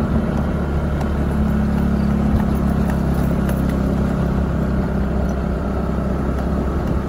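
SYM motorbike engine running steadily while riding a narrow hill road, with road and wind noise on the microphone.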